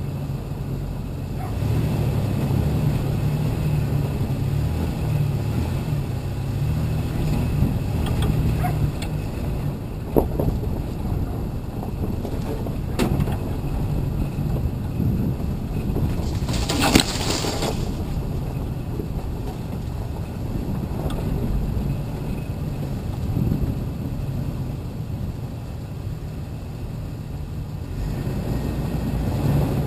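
Vehicle engine running steadily at low speed while driving slowly over dirt trails, with a few knocks and, about two-thirds of the way through, a brief rush of noise.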